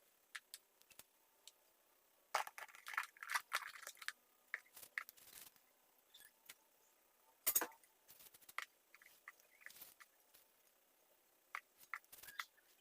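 Small handling noises while cleaning a mini chainsaw: scattered clicks, light scrapes and rustles of parts and tools, with one sharper knock about halfway through.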